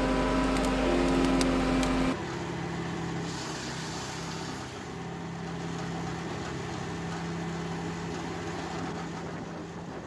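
Engines of heavy wood-processing machinery running steadily. About two seconds in, a loud drone with several held tones cuts off abruptly and gives way to a quieter, steady engine hum.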